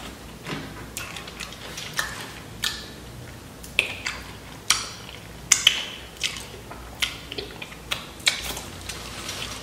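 Close-miked eating of Flamin' Hot Doritos nachos: irregular sharp crunches and mouth clicks as bits of chip are bitten and chewed, the loudest pair about five and a half seconds in.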